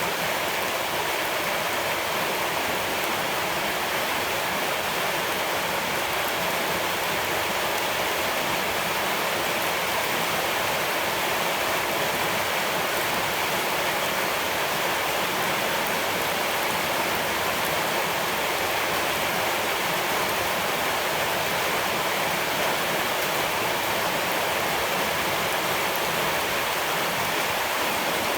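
Flowing water rushing steadily, an even hiss with no separate drops, splashes or other events standing out.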